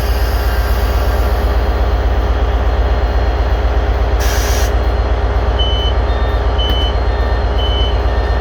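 Diesel train standing at the platform with its engine idling in a steady, pulsing low rumble. About four seconds in there is a short hiss of released air, and from about five and a half seconds a high electronic beep repeats about once a second.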